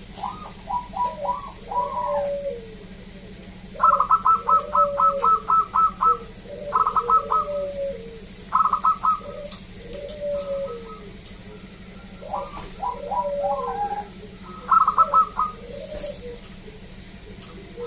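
Zebra dove singing: phrases of quick staccato coos, the longest a run of about nine notes, each phrase followed by lower sliding coos, repeated several times.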